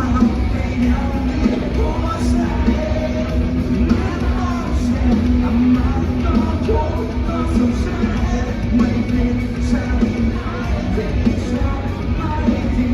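A rock band playing live in an arena, with amplified guitars, bass and drums under sung vocals.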